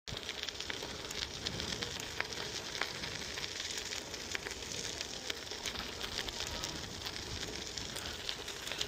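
Bicycle riding along a path: a steady rustling noise of tyres rolling and air on the microphone, with many small ticks and crackles.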